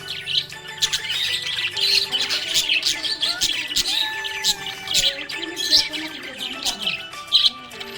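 Budgerigars chirping and warbling in a dense, continuous run of quick high chirps, the happy chatter of budgies.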